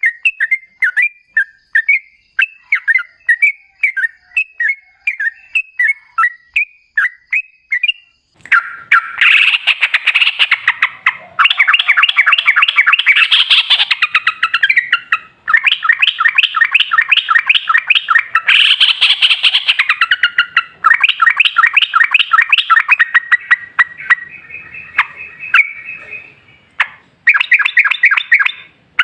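Yellow-vented bulbul (trucukan) singing: spaced short chirps at first, then from about 8 seconds in, long runs of rapid-fire repeated notes, the 'ropel' song. There is a short break before one last quick run near the end.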